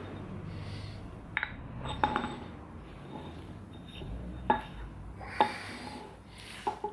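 Metal parts clinking and knocking as they are handled and set down on a hard surface: about five sharp clinks, the two loudest about halfway through.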